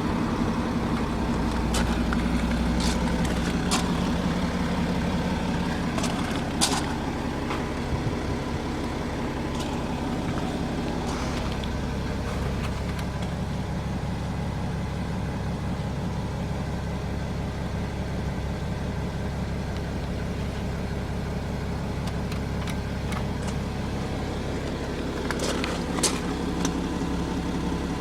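BMW X6 xDrive40d's 3.0-litre twin-turbo straight-six diesel idling steadily, with a few light clicks near the start and near the end.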